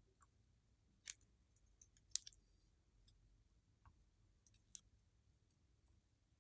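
Near silence with a handful of faint, sharp clicks scattered unevenly, the small sounds of handling slime and its containers.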